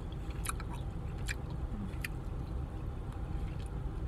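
Mouth chewing a soft, very chewy Hi-Chew fruit candy, with a few sharp wet smacking clicks, most of them in the first couple of seconds. A steady low rumble lies underneath.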